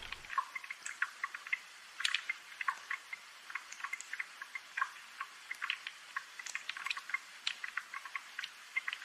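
Rain water dripping: scattered single drops plinking at an irregular pace, several a second, with no steady downpour underneath.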